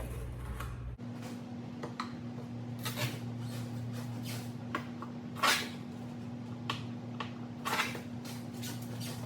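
Scattered clicks and knocks of a new air fryer's plastic parts being handled while its basket drawer is worked open, over a steady low hum.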